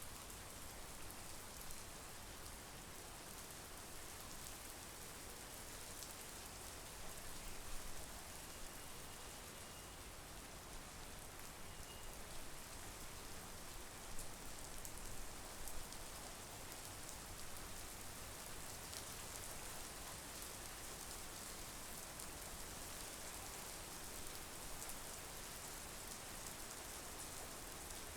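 Steady monsoon rain falling on foliage and the ground, an even hiss with individual drops ticking close by.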